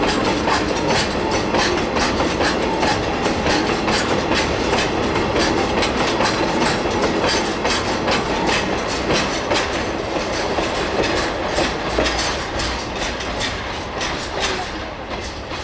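Freight train of ヲキ hopper wagons moving on the rails behind the Deki 102 electric locomotive during shunting, the wheels clicking steadily over rail joints over a continuous rumble. The sound eases slightly near the end.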